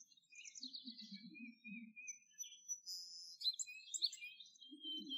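Faint birdsong: several short chirps, whistled notes and quick runs of notes from more than one bird.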